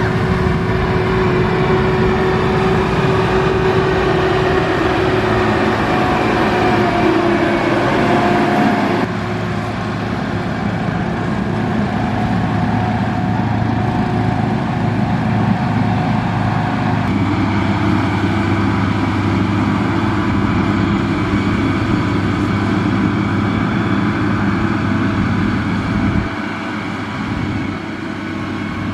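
Diesel engine of heavy road-building machinery running steadily with a low droning tone. The sound changes abruptly twice.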